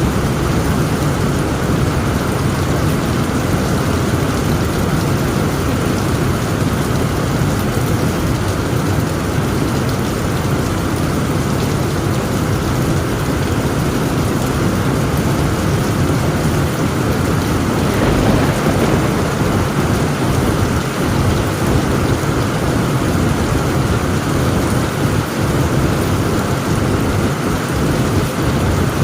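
Heavy rain drumming steadily on a tent roof, with thunder rumbling underneath and one louder swell a little past the middle.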